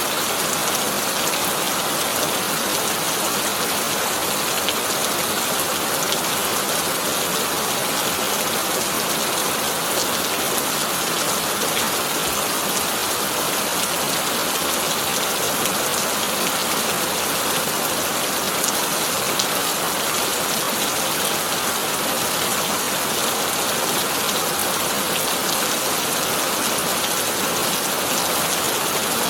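Heavy rain drumming steadily on a corrugated tin roof, a dense hiss of drops with fine ticks of individual strikes and no thunder.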